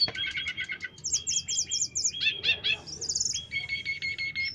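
Tledekan songbird singing a varied song of fast repeated chirps and trills. The phrase changes about every second, shifting between a series of quick notes and higher, buzzier runs.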